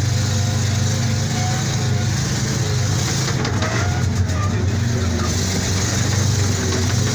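Armoured personnel carrier's engine running steadily with a deep, even drone while the vehicle is driven.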